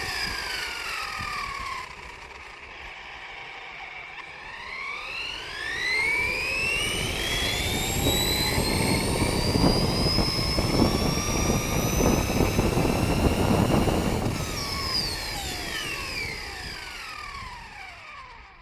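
A 1/10-scale RC trophy truck's motor, heard from on board, whining up and down with speed. The pitch falls at first, climbs steadily from about four seconds in with loud rough ground and running noise underneath, then falls away near the end as the truck slows.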